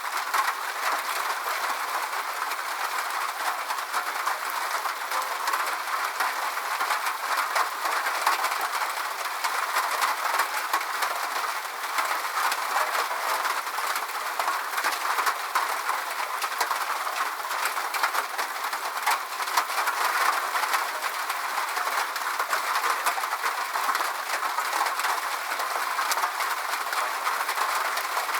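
Steady rain, a dense even hiss with many small drop ticks throughout and no low rumble.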